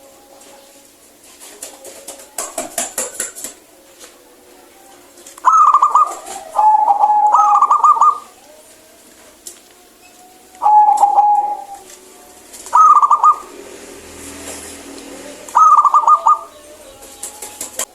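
Zebra dove cooing in its rapid, trilling song: several loud phrases of quick stuttering coos. The longest, about two and a half seconds, comes a third of the way in, followed by three shorter ones. Softer, quicker notes come early on.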